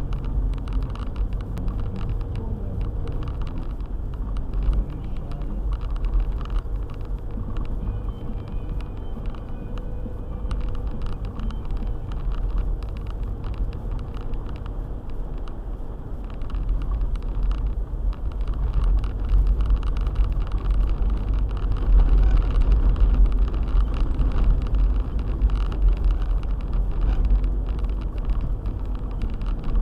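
Four-wheel-drive car driving: a steady low rumble of engine and road noise, getting louder for a stretch past the middle.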